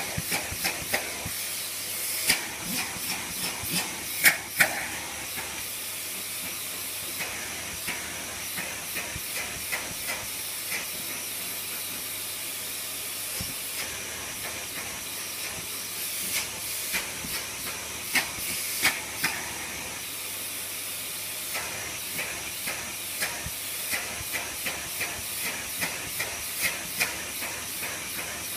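Dyson DC54 vacuum cleaner running: a steady rushing hiss of suction, with irregular sharp clicks and ticks coming in clusters.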